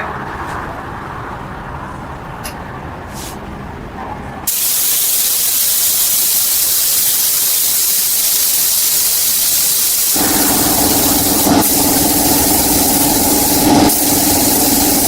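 A loud, steady hiss that starts suddenly about four and a half seconds in, like air or spray under pressure; about ten seconds in a motor starts running with a steady hum under it.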